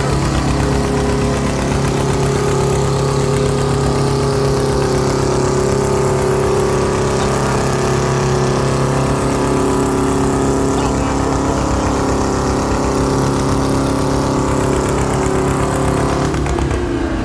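Two-cylinder engine of a John Deere G tractor running hard under load as it pulls the sled, with a steady, deep, even exhaust note. The note changes just before the end as the engine speed shifts.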